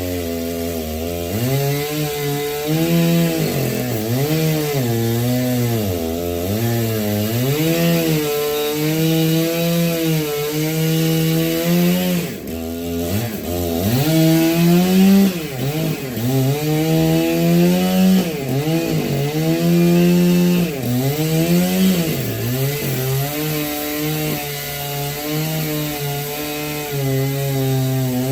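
Chainsaw cutting wood, its engine pitch dipping and climbing back again and again as the chain bites into the wood.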